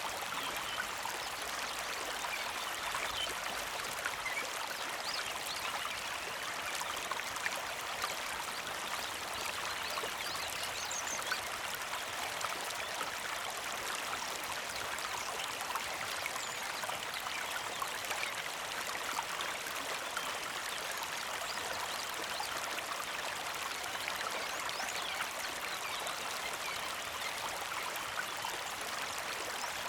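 A small creek flowing and trickling steadily, an even rush of running water.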